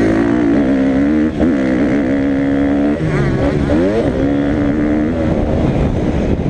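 Motocross dirt bike engine running hard, its pitch holding, dropping briefly twice as the throttle is cut or gears change, then climbing sharply as it revs back up.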